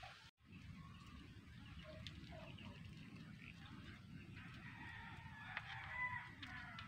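A faint bird call lasting a couple of seconds, about five seconds in, over a low steady rumble.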